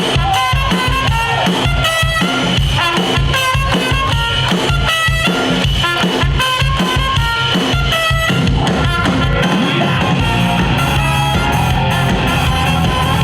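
Live rock band playing an instrumental introduction: a drum kit keeping a steady beat under electric guitar and bass. About eight seconds in, the band moves into a fuller, heavier sound.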